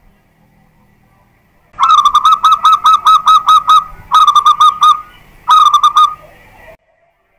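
Zebra dove (perkutut) singing: three quick runs of repeated cooing notes, the first of about ten notes, then about five and about four, very loud. The song starts about two seconds in and cuts off abruptly near the end.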